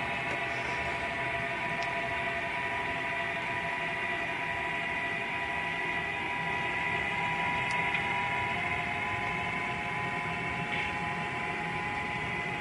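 Model freight train pulled by a GP35 diesel locomotive running slowly past: a steady whine with a rolling hum of the locomotive and cars on the track.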